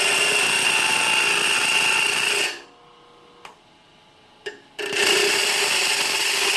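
A piece of aluminum pressed twice against a spinning grinder's abrasive stone wheel, each pass a loud, steady grinding hiss of about two and a half to three seconds. Between the passes the wheel spins on quietly, with a couple of light clicks. The aluminum is clogging the stone's pores rather than being ground away.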